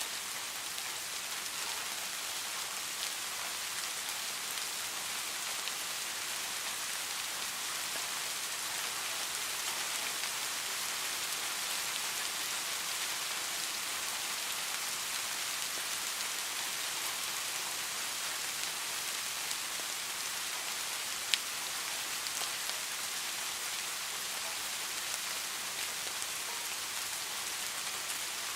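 Steady rain falling, an even hiss without thunder, with one sharp tick about three-quarters of the way through.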